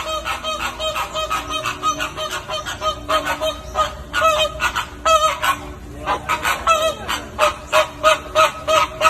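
A flock of birds honking, goose-like: short honks repeated about three to four times a second, several birds calling over one another.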